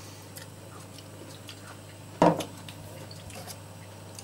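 A person chewing an olive, with quiet wet mouth sounds and small clicks, and one short louder sound about two seconds in.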